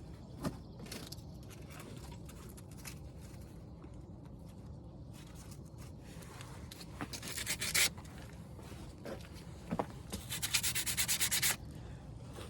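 Sandpaper rubbed by hand on metal brake parts in quick back-and-forth strokes, two short spells of about ten strokes a second, the second one longer, to clean corrosion off the caliper slide before it is greased. Scattered small knocks and handling clicks come before, with a sharp knock about half a second in.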